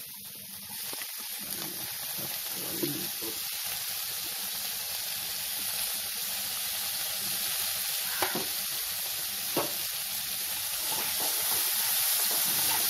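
Chopped onions and green chillies sizzling in coconut oil in a non-stick kadai, stirred with a wooden spatula, with chopped tomato added partway through. The sizzle grows steadily louder, and two sharp taps come about eight and nine and a half seconds in.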